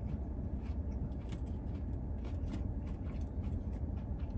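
Steady low rumble inside a car cabin, with faint, irregular mouth clicks from someone chewing a fried chicken nugget.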